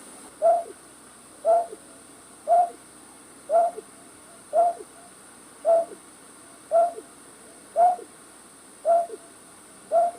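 A night bird's short hooting call, repeated evenly about once a second, each note dropping slightly in pitch at the end. It is a lure call for trapping night birds.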